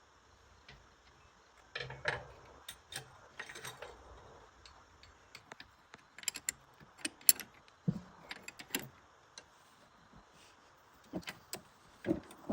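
Scattered light clicks and metallic clinks of small parts and tools being handled during generator repair, with a few sharper knocks.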